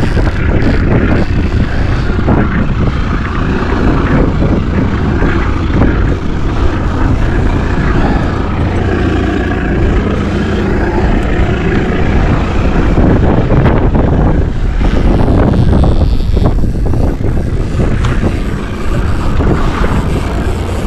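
Strong wind buffeting the microphone: a loud, unbroken rumble with gusts and no clear pitch.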